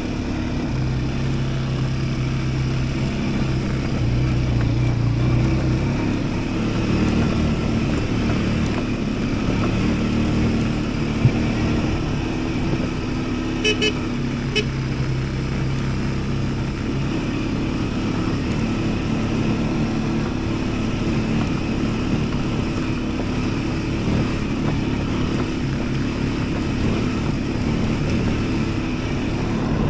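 Yuki Tract 200 mini ATV engine running while riding, its pitch shifting up and down with the throttle, with a few brief clicks about halfway through.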